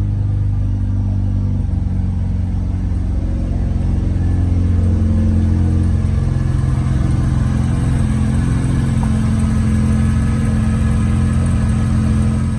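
Mazda RX-7 FD3S twin-rotor rotary engine idling steadily while warming up after a cold start, with a slight change in its note about two seconds in.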